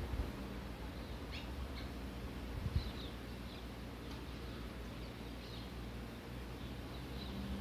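Small birds giving short, faint, high chirps every second or so, over a steady low hum, with one brief low thump about three seconds in.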